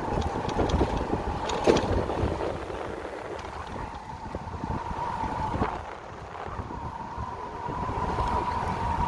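Electric motorcycle riding along, with wind rushing over the microphone and a steady high whine from the drivetrain. Two sharp knocks sound partway through.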